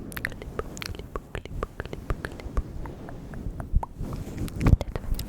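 Close-miked ASMR mouth sounds: a quick, irregular run of wet tongue and lip clicks and smacks, with a louder low thump near the end.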